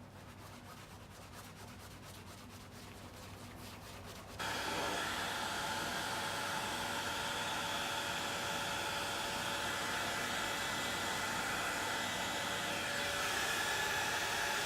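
A small electric blower motor switches on suddenly about four seconds in and runs steadily with an even airy whir.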